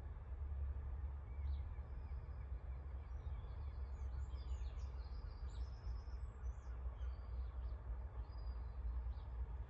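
Wild songbirds chirping and trilling in short high calls, busiest through the middle, over a steady low rumble.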